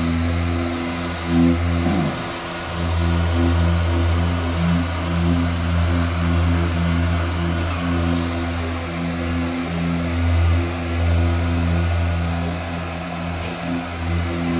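A machine's motor running steadily with a low, pulsing hum and a faint high whine, with a short falling sweep about two seconds in.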